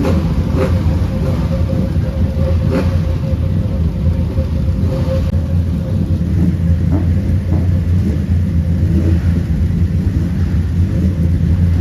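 Racing car engines on the circuit: a steady engine rumble with one held mid-pitched note running through it.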